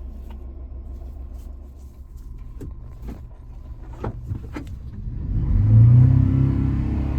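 1999 Honda Acty kei truck's small three-cylinder engine idling with a few sharp clicks, then revving up about five seconds in and holding at a higher speed.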